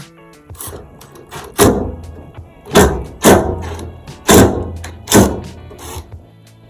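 Five loud knocks and thuds, roughly a second apart, as washing machine panels and parts are knocked into place during reassembly, over steady background music.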